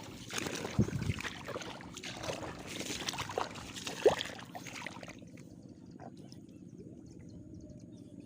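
Footsteps sloshing through the water and mud of a flooded rice paddy, in irregular splashes that stop about five seconds in, leaving only a faint steady background.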